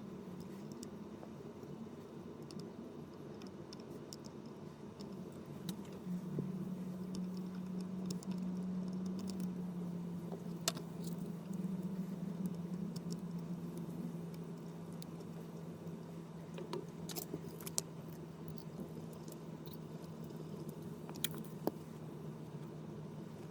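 A steady low hum from a small motor starts about six seconds in and runs on, dipping slightly in pitch partway through. A few light, sharp clicks sound over it, most of them in the second half.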